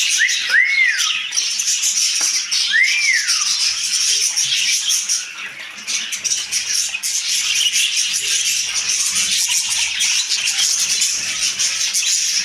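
Pet parrot giving two short whistles that rise and fall in pitch within the first few seconds, over a continuous scratchy, rattling noise made of rapid fine ticks that dips briefly about five seconds in.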